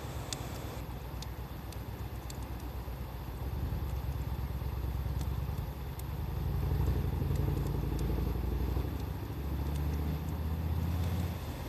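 Wood fire crackling with scattered sharp pops, over a louder low motor rumble that swells about halfway through.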